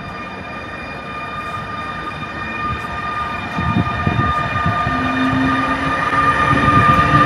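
Newag Griffin electric locomotive approaching and getting steadily louder, with a steady high whine from its drive. A low rumble of wheels on rails joins about halfway through.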